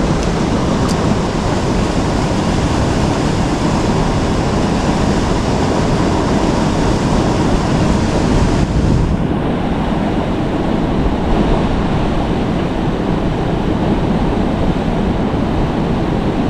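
Steady rush of river water, a constant loud hiss over a deep rumble. The brighter top of the hiss dulls about nine seconds in.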